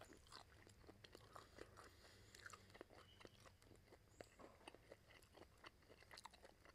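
Faint close-up chewing of pork rib meat, with many small irregular clicks and smacks from the mouth.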